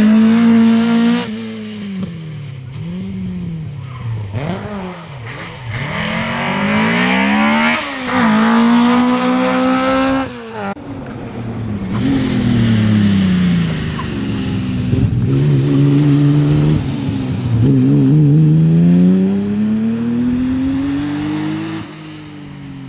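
Rally car engine revving hard, its pitch repeatedly climbing and falling as it accelerates through the gears and lifts off for corners. It fades near the end as the car moves away.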